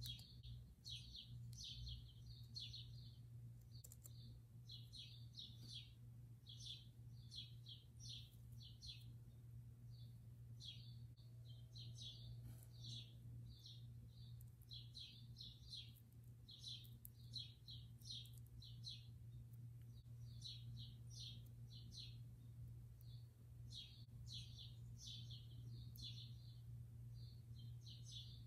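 Small birds chirping faintly in short runs of quick, high chirps, over a steady low hum.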